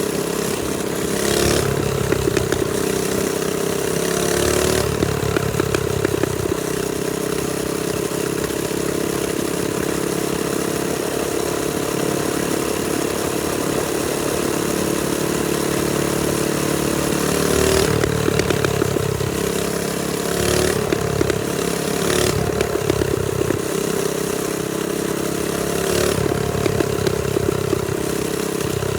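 TrailMaster Storm 200 minibike's small single-cylinder engine running under way at a fairly steady speed, its pitch shifting as the throttle changes about five seconds in and again near eighteen seconds. Short bursts of rushing noise come and go over it.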